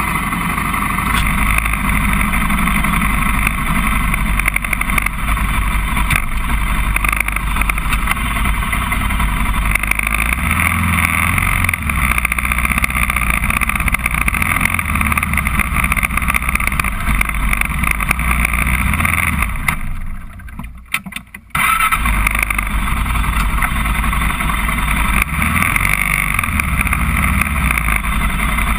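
Honda TRX400EX quad's single-cylinder four-stroke engine running under way, its note rising and falling with the throttle. About twenty seconds in the sound drops away for a second or so, then returns.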